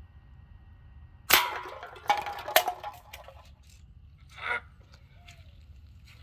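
A BB gun shot with a sharp crack about a second in, then empty soda cans clanging and rattling as they are hit and knocked over, with a few smaller clinks and a softer rattle afterwards.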